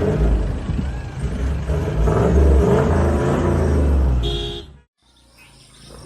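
A vehicle engine running with a heavy low rumble, which cuts off abruptly nearly five seconds in.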